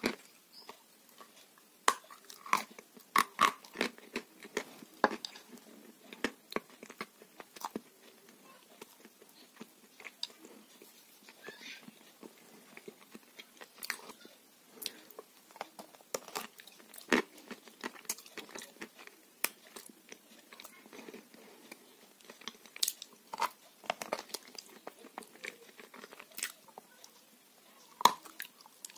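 Close-miked biting and chewing of a sauce-coated piece of chalk: irregular sharp crunches mixed with wet mouth clicks.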